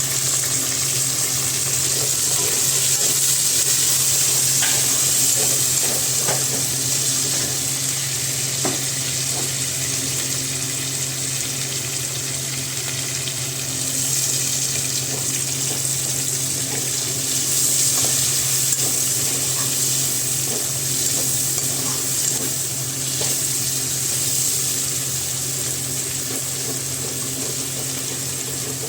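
Chicken sizzling as it fries in a pan, with a spoon stirring and scraping in light, scattered clicks, over a steady low hum.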